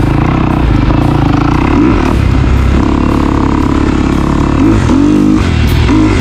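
Dirt bike engine running while riding, its pitch going up and down with the throttle, with a few quick revs in the second half.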